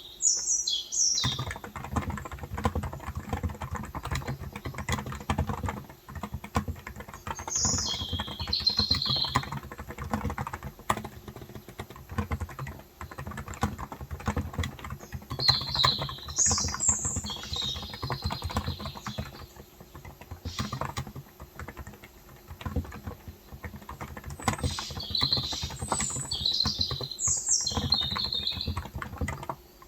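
Continuous typing on a Cox Endeavour electrostatic capacitive (35 g) tenkeyless keyboard, a dense run of soft key clicks with brief pauses near the start and the end. Birds chirp in short high bursts at the start, about 8 seconds in, around 16–18 seconds and again around 25–28 seconds.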